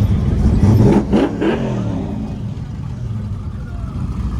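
Car engine running with a low rumble, revved briefly about a second in, then settling back.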